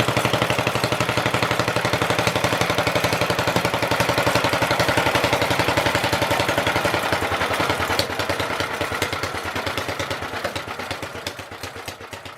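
Petter A1 single-cylinder stationary engine running with a steady, even beat. About two-thirds of the way through, the beat slows and fades as the engine runs down.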